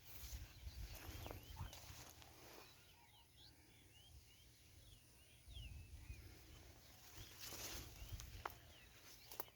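Small birds chirping: many short, quick calls scattered throughout, faint, over uneven bursts of low rumbling noise and a few brief rustles.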